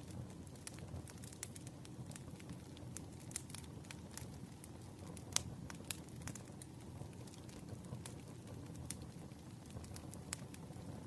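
Wood fire crackling: irregular snaps and pops of burning firewood over a low steady rumble, with one sharper pop about five seconds in.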